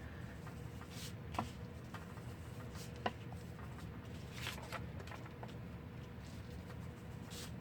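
Faint, scattered taps and light rustles of paper and small craft tools being handled on a tabletop, about half a dozen soft clicks over a low steady room hum.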